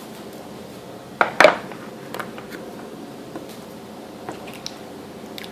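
Kitchen handling sounds while seasoning chicken: two sharp knocks in quick succession about a second in, then a few light clicks and taps.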